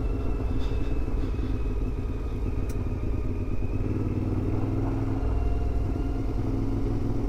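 CFMoto 450MT adventure motorcycle's parallel-twin engine running steadily under way, its note shifting slightly partway through.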